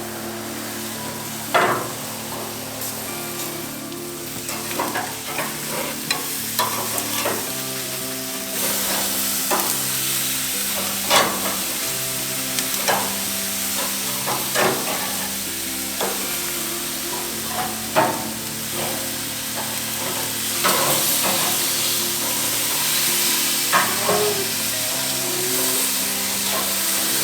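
Food sizzling in a hot pan while being stirred, with sharp utensil clicks and knocks every second or two and a hiss that grows louder about a third of the way in, over steady background music.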